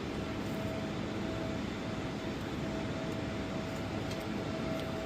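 Steady mechanical drone with a faint, constant high whine.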